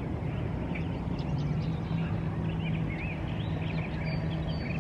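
Birds chirping and calling in short scattered notes over a steady low hum.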